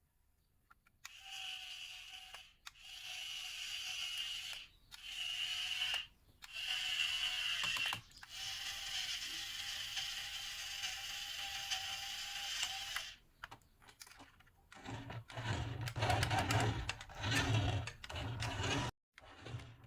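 Small electric motor and plastic gearbox of a remote-control toy whirring in repeated short runs, starting and stopping as the controls are pressed. Near the end comes a rougher rattling with more low rumble.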